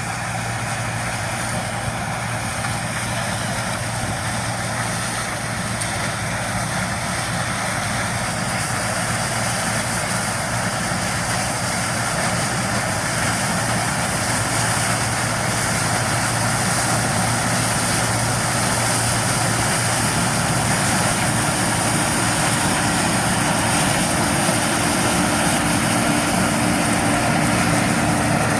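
John Deere combine harvester running steadily with the even whir of its working machinery, growing gradually louder, with a further steady hum joining in the last third.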